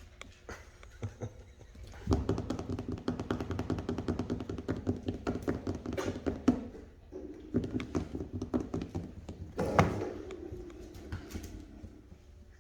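Rottweiler puppies playing: rapid tapping and scuffling, densest from about two to six and a half seconds in, with a sharp knock near ten seconds.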